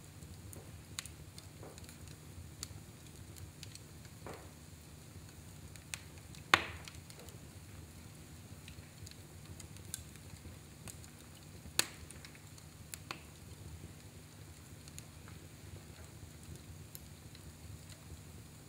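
Fire in a fireplace crackling with a steady low rumble, broken by scattered small pops and two sharp cracks, the loudest about six and a half seconds in and another near twelve seconds.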